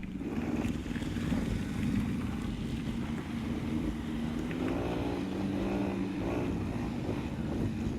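Engine of a moving road vehicle running steadily, with a low even hum.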